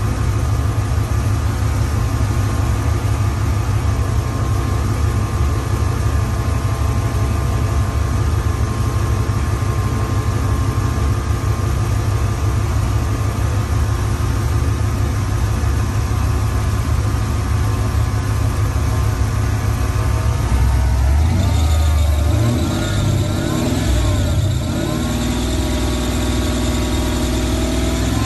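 Eight-cylinder truck engine idling steadily with its electric radiator fans running. About twenty seconds in the engine note wavers and shifts for a few seconds, then settles to a different steady pitch.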